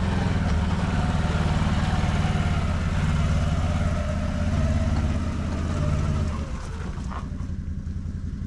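A vehicle engine running steadily. About six and a half seconds in it drops to a lower, quieter idle.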